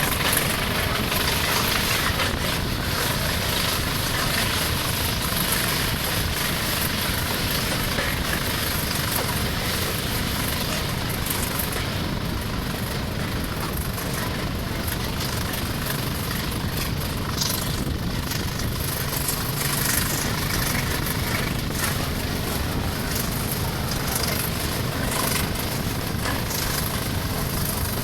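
A railway train running with a steady engine noise and low rumble.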